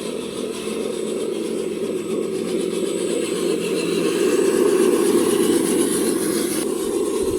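Radio-controlled construction models running: a steady mechanical hum that swells a little midway.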